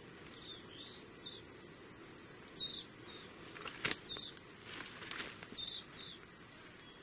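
A small bird calling repeatedly with short, high chirps that drop in pitch, over a steady low background hiss. Around the middle come rustling and a sharp snap of dry twigs and brush underfoot.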